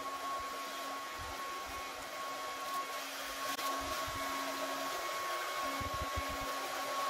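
Handheld hair dryer running steadily, blowing with a thin constant whine, used as a heat gun to soften a sticker's adhesive.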